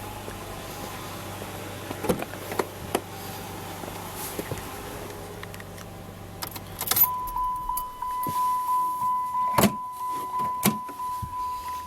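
2005 Dodge Magnum SXT's new replacement 3.5-litre V6 idling steadily, then switched off about seven seconds in. After it stops, the car's warning chime pulses at about three beeps a second, with keys jangling and a few clicks and knocks.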